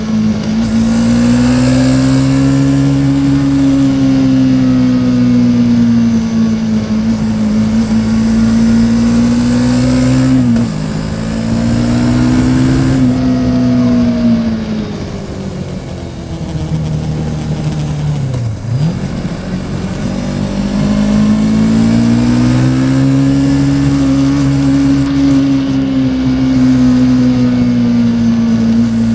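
Yamaha Tracer 700's parallel-twin engine running under way, its pitch rising and falling with the throttle. It eases off and goes quieter about a third of the way in, dips sharply and picks up again about two-thirds through, then holds steady revs.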